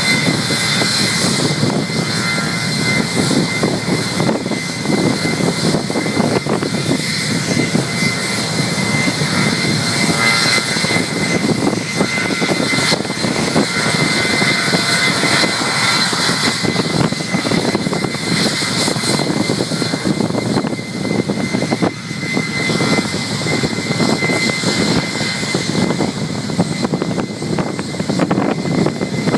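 Boeing 757 turbofan engine running at high power in a ground run-up after maintenance: a steady, loud roar with a constant high whine over it.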